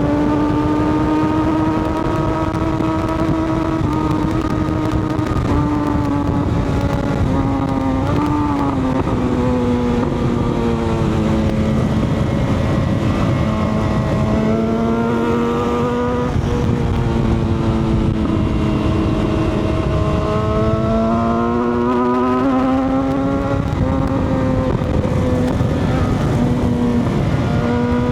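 Motorcycle engine running under way, its pitch sagging slowly through the middle and climbing again near the end with a couple of short dips, over steady wind rush.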